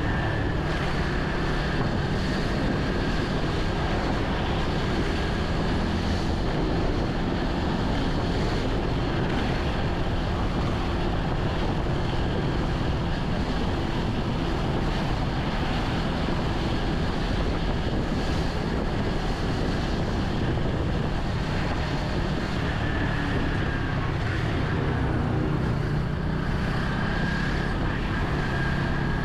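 Steady wind rush on the microphone of a moving vehicle, with road and engine hum beneath it and a faint whine.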